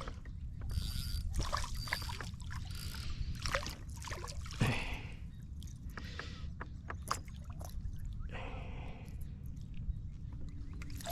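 Handling noises on a fishing kayak: scattered knocks, clicks and short splashy rustles over a steady low rumble.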